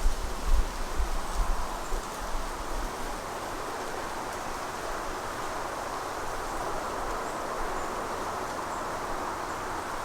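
Woodland ambience: a steady rustling hiss, like wind in the trees, with a few faint high chirps. Low rumbling buffets of wind on the microphone in the first couple of seconds, then they die away.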